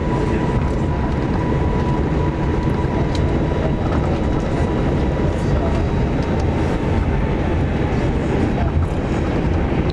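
Jet airliner cabin noise from a front-row seat: a steady rumble with a thin high whine that drifts slightly lower over the seconds.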